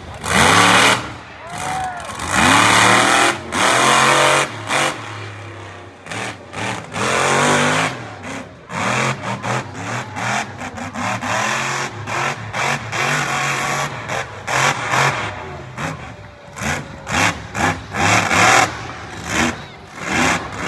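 Monster truck engine revving hard in repeated short bursts of throttle, its pitch sweeping up and down.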